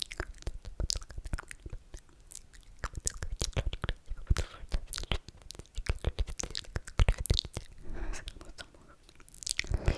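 Close-miked ASMR mouth sounds: a dense, irregular run of wet clicks and smacks, with short slurping stretches.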